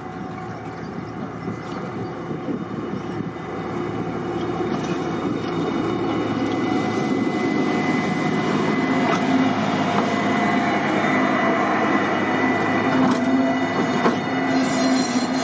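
Diesel locomotive approaching, its engine getting steadily louder over the first several seconds, with a steady high whine above the engine's running.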